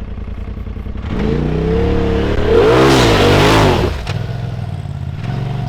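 Polaris RZR side-by-side engine running steadily, then revving up about a second in, its pitch climbing and wavering as the throttle is worked, loudest in the middle before dropping back to a steady run about four seconds in.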